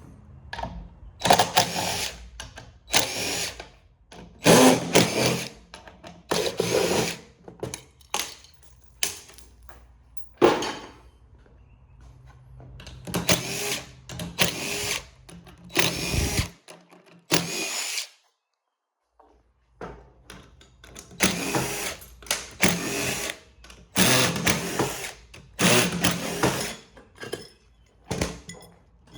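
Cordless drill-driver with a socket running in many short bursts, spinning out bolts one after another. The sound cuts out completely for about two seconds in the middle.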